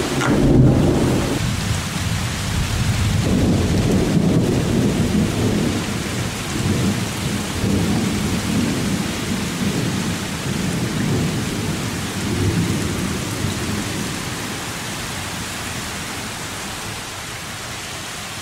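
Heavy rain hissing steadily through a thunderstorm. Thunder rumbles loudest about half a second in, rolls on again from about three seconds in and slowly dies away.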